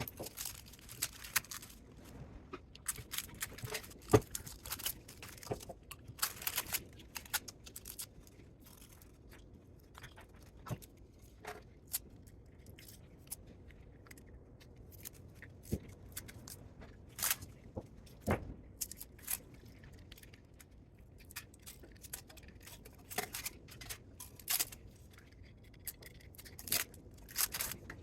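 Hand tools and metal parts of a DC spot welder being taken apart for scrap: irregular sharp clicks, snips and scrapes, with the loudest knock about four seconds in.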